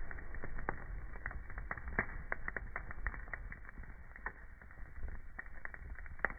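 Wood fire crackling in a fireplace: irregular sharp pops and snaps, a few louder than the rest, over a steady low rumble of the burning.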